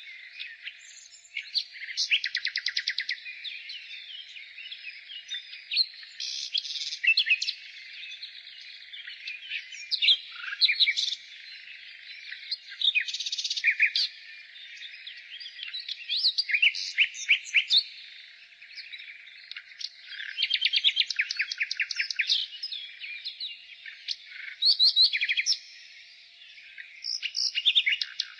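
Nightingale singing: phrase after phrase of fast repeated notes, trills and sweeping whistles, each lasting a second or two with short pauses between them, over a constant fainter chatter of other birds.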